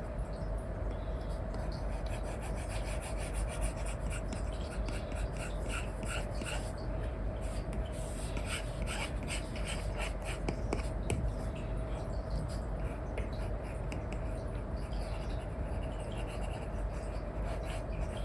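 Apple Pencil 2 with an Elecom nib rubbing and scratching across a paper-like matte screen film on an iPad: a run of short, scratchy strokes over a steady hiss and a low constant hum.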